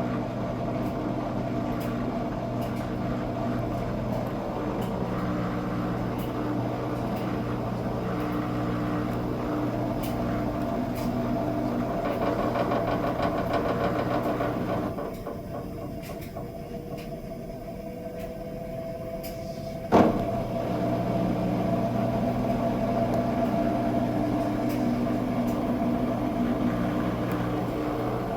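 Pay-per-load washing machine in its final spin, the drum and motor running with a steady hum. About 15 s in the sound drops and a tone slowly rises for a few seconds, then a sharp clunk about 20 s in, and the fuller spin sound resumes.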